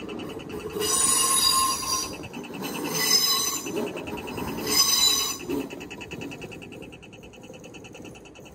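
An electric multiple-unit train passes over a level crossing, its wheels squealing in three bursts before the rumble fades as the last car clears. Through it the crossing's warning bell rings rapidly and steadily, and it keeps ringing after the train has gone.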